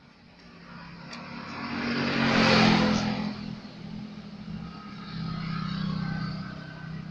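A motor vehicle's engine, swelling to a peak about two and a half seconds in and then fading, with a second, softer swell of engine sound later on.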